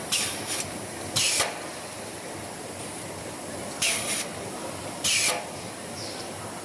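Pneumatic valves and cylinders on a robotic condenser-folding machine venting compressed air: four short hisses of exhaust air at irregular intervals, over a steady factory background noise.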